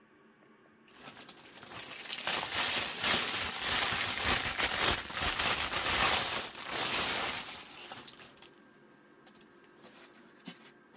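A crinkling, rustling noise that begins about a second in, grows loud, and fades away by about eight seconds.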